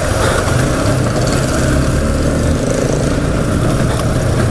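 Motorcycle engine running while riding in city traffic, with steady road and wind noise; the low engine note eases off about two and a half seconds in.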